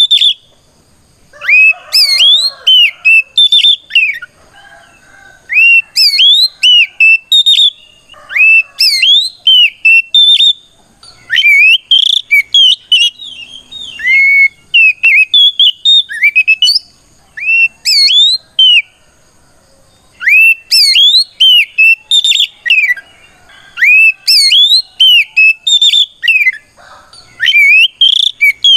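Oriental magpie-robin (kacer) singing a loud challenging song: phrases of rapid, sweeping whistled notes with short pauses between them. This is the song a male uses to call out a rival.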